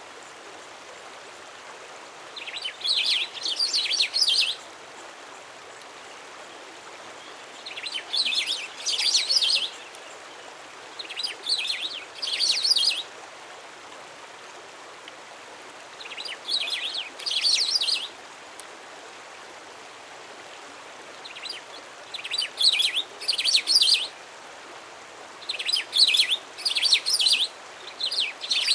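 A songbird singing a rapid, high-pitched phrase of many quick notes, about two seconds long, six times with pauses of a few seconds between, over a steady faint hiss.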